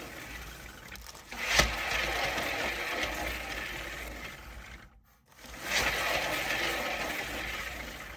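Cake spinner turntable spun by hand under a paint-covered canvas, its turntable bearing whirring and rattling. The whirring fades as it slows, then starts again with a fresh spin about six seconds in.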